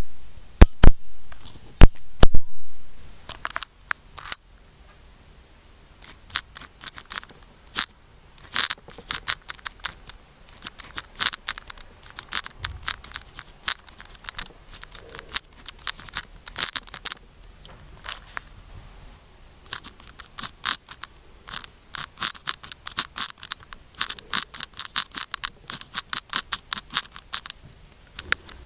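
Kaco pen writing on paper: short scratchy strokes of the nib, many in quick irregular runs, as characters are written one after another. A few loud sharp clicks come in the first couple of seconds, before the writing starts.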